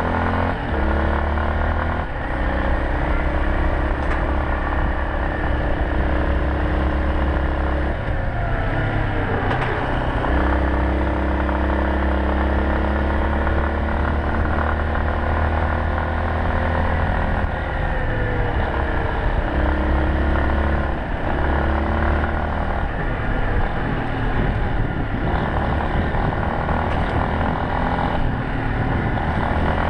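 Yamaha Serow 250's air-cooled single-cylinder four-stroke engine running under way, its note holding steady for long stretches and changing pitch about nine seconds in and again around eighteen to twenty seconds, as with throttle or gear changes.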